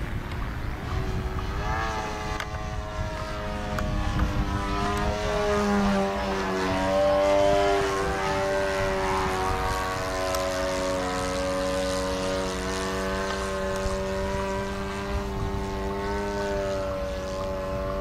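Radio-controlled model airplane with an O.S. FS-52 four-stroke glow engine running, its propeller note steady but gliding up and down in pitch, loudest about seven seconds in.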